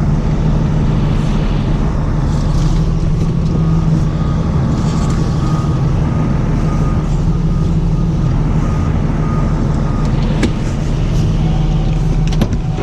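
Heavy tow truck's engine running steadily at low revs. A faint repeating high beep sounds through the middle, and a few sharp clicks come near the end.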